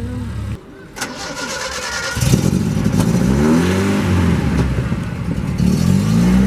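Nissan Skyline GT-R engine starting with a sharp crack about a second in, then revved up and down several times, its pitch rising and falling with each blip of the throttle.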